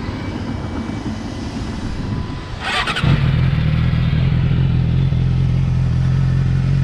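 Yamaha R6's inline-four engine starting: a short clatter about three seconds in, then the engine catches and idles steadily.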